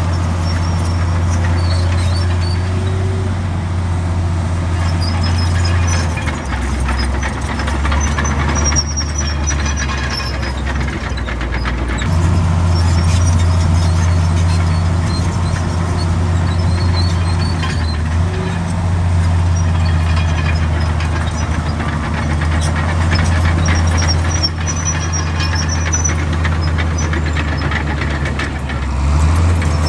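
Komatsu D65 bulldozer's diesel engine running under load, with high squeaks from the tracks now and then. The engine note drops lower at about six seconds in and comes back up at about twelve seconds.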